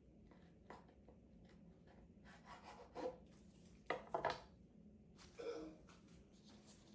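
Household objects being handled: a few light knocks and scrapes, the loudest about three and four seconds in, then a short ringing clink near the end.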